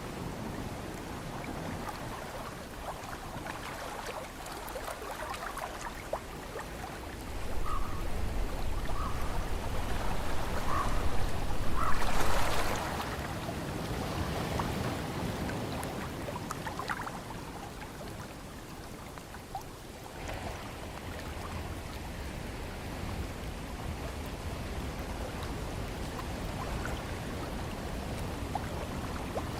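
Ocean surf with wind: a steady wash of water noise, with a wave building from about 7 seconds in, peaking around 12 seconds and then receding.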